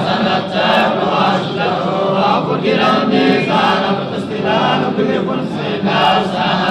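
Quran recitation chanted by several men's voices together, a steady melodic drone of overlapping voices without pause.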